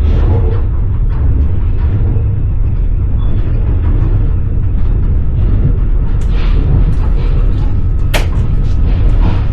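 Train wheels clattering and the carriage rumbling steadily on the rails, heard from inside a passenger car. A run of sharp clicks and knocks comes in the second half, the loudest about eight seconds in.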